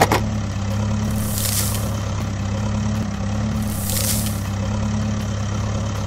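A truck engine sound idling steadily, with a short hiss twice, about two and a half seconds apart, and a sharp click right at the start.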